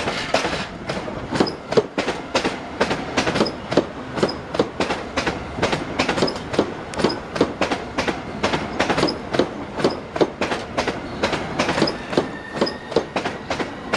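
Javelin train running along the track, its wheels clicking evenly over the rail joints at about four a second, with a faint brief whine near the end.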